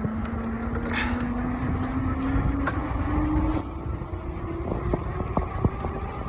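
Fat-tire electric bike rolling downhill: a steady hum climbs in pitch as it gathers speed, then stops abruptly about three and a half seconds in. After that come scattered clicks and rattles from riding over the rough road, with wind rumbling on the microphone.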